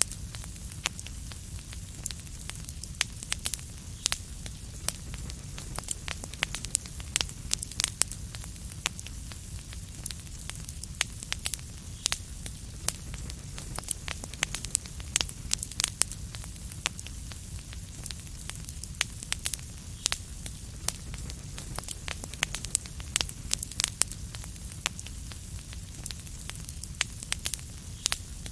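Wood fire crackling in a fireplace: a steady low rumble of flames with many sharp, irregular pops and snaps, several a second.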